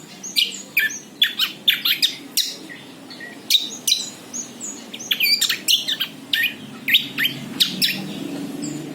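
Bird chirping rapidly: a busy run of short, sharp chirps and quick downward-sweeping whistled notes, several a second with brief gaps.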